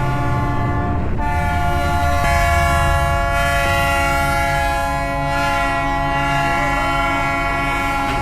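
A horn sounding a long, loud held chord of several tones, the kind of multi-note air horn a train sounds. It starts about a second in, shifts pitch once shortly after, then holds steady.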